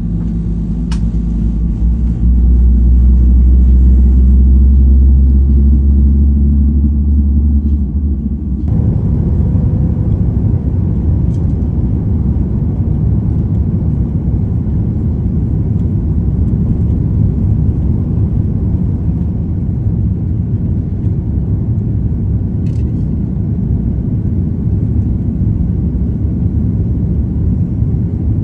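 Airliner engines and rumble during departure: a loud, steady low rumble with a few steady tones, turning rougher and fuller about nine seconds in and holding steady after that.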